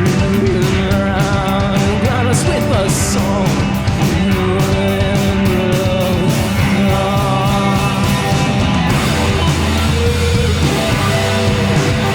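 Live rock band playing a loud instrumental passage: electric guitars with wavering, bending lead lines over bass and drums.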